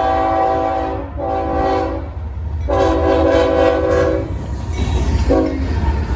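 Air horn of CSX 5384, the lead diesel locomotive of a freight train, sounding four blasts: two of about a second, a longer one, then a short one, over the low rumble of the train running past.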